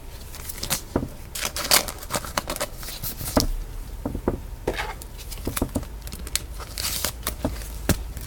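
Trading cards and their plastic packaging being handled: irregular crinkling, rustling and small clicks.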